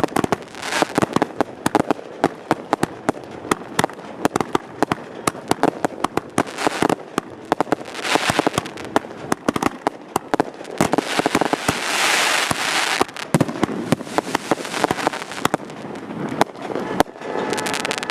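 Consumer-grade 1.4G fireworks going off in a show: dense, rapid sharp bangs and cracks, with a stretch of continuous hissing crackle about eleven to thirteen seconds in.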